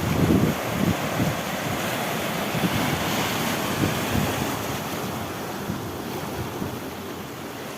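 Sea waves breaking and washing over a rocky shore, with wind buffeting the microphone. The surge is loudest in the first second, then eases off gradually.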